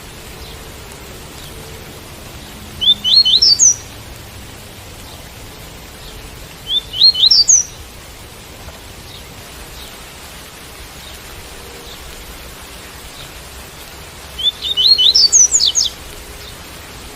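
Double-collared seedeater (coleiro) singing the 'tui-tui' song type: three short phrases of quick rising notes, the last one the longest, over a steady hiss of rain.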